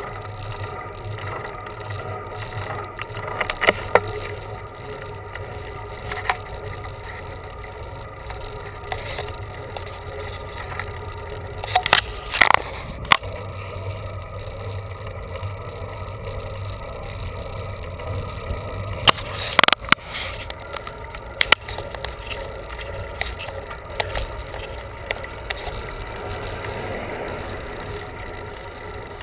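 Steady rolling noise of a bicycle being ridden on a road, with a few sharp clicks and rattles: around four seconds in, around twelve seconds in, and around twenty seconds in.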